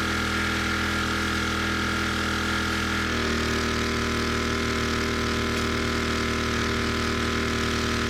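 Pressure washer's engine running steadily, its note shifting abruptly about three seconds in.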